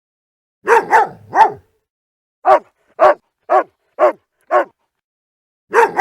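Dog barking: a quick run of three barks, then five single barks about half a second apart, then another run of three near the end.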